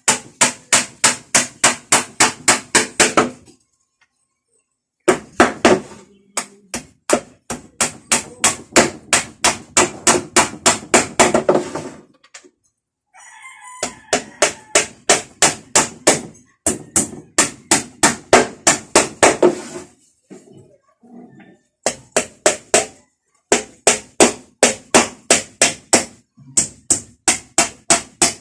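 Hammer blows in quick, even runs of about five strikes a second, each run lasting a few seconds with short pauses between. A rooster crows briefly about halfway through.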